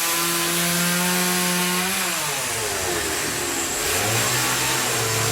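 Motorised power saw or cutter running at high speed, then slowing under load from about two seconds in and picking up speed again near the end, as it cuts through material.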